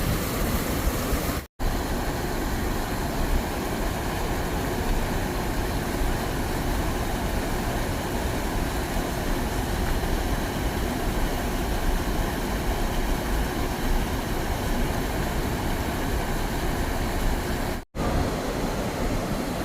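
Steady rushing noise of flowing stream water. It cuts out abruptly twice, about a second and a half in and near the end.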